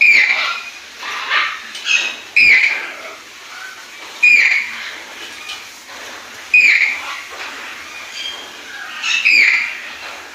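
Toucan giving a series of loud calls, about seven of them at irregular intervals a second or two apart. Each call starts suddenly and fades within about half a second.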